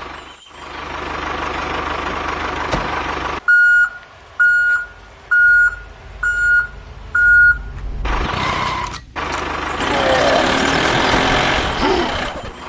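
Vehicle reversing alarm beeping five times, about once a second, between stretches of steady engine-like noise.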